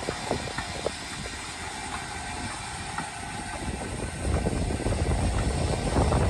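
Wright R-2600 Cyclone 14-cylinder radial engine of an SB2C Helldiver being started: a steady starter whine with scattered pops as it cranks, then about four seconds in the engine begins firing and the sound grows louder with rapid low pulses. This is its first start after an engine replacement.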